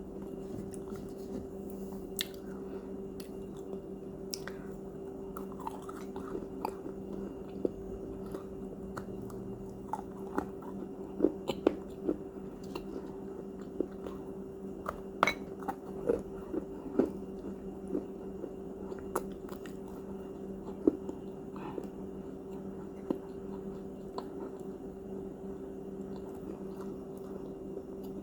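A person biting and chewing crunchy cookies close to the microphone: scattered sharp crunches, thickest around the middle, over a steady low hum.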